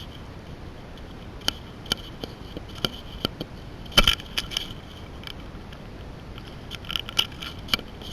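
Irregular sharp clicks and scraping knocks on an underwater camera as fish work at the bait beside it, the loudest knock about four seconds in and a cluster near the end.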